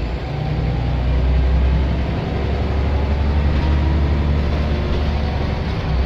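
Scania L94 bus's diesel engine running under load with a strong low drone, its pitch rising gently as the bus picks up speed.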